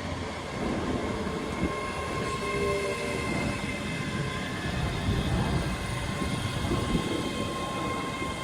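Train running at a station: a steady rumble of wheels on the rails with a faint steady high whine over it.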